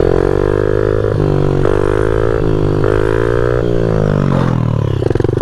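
Small single-cylinder pit bike engine held at high revs through a wheelie, its pitch sliding down about four seconds in as it bogs. The bogging happens when the bike goes too far back, which the rider puts down to the bigger aftermarket carburettor.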